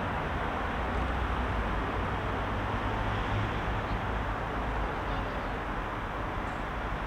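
Heavy rush-hour road traffic: a steady wash of engine and tyre noise over a deep low rumble.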